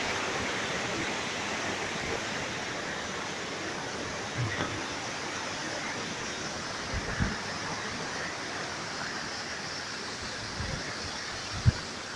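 Small waterfall running low in the dry season, its falling water making a steady rush. A few short low thumps sound in the middle and near the end.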